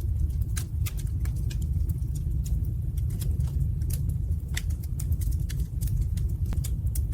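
Fire burning in a fireplace, crackling with frequent, irregular sharp pops over a low, steady rumble.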